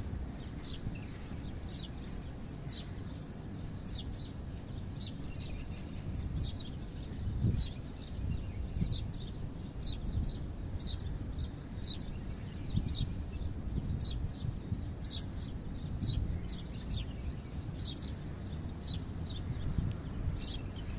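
A small bird chirping over and over, short falling chirps coming in quick succession, over a steady low rumble.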